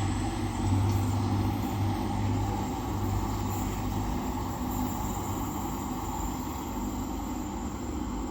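Two coupled Class 185 diesel multiple units pulling away, a steady low diesel engine drone that weakens after about four seconds and slowly fades.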